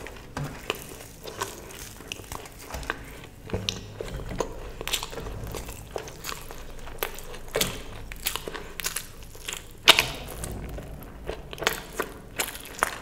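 A person chewing and biting crisp food close to the microphone: irregular crunches and wet mouth clicks, with one sharper crunch about ten seconds in.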